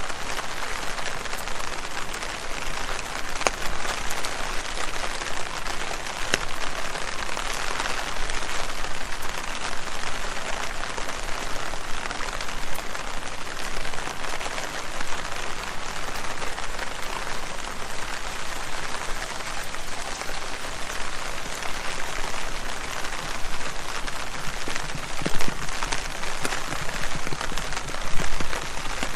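Steady rain pattering on leaves: an even hiss of rainfall, dotted with many single drop ticks.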